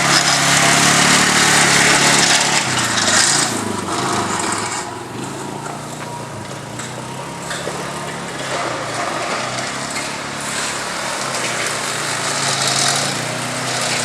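Small gasoline engine of a 1960s pull-behind lawn mower running steadily while cutting grass. It is loudest at first and drops off noticeably about four seconds in, then slowly grows louder again.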